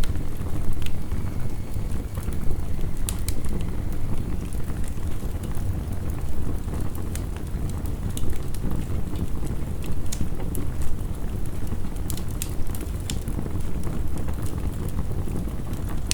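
Wood fire crackling with irregular sharp pops over a steady, dense rumble of heavy rain.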